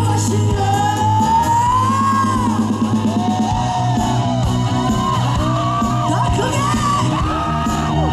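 Live band music between sung lines: a high lead line of long held notes that glide up and down, over steady bass and drums.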